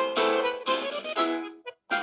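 Instrumental phone ringtone melody played in short phrases of bright notes, stopping about 1.7 s in; after a brief silence another ringtone tune starts just before the end.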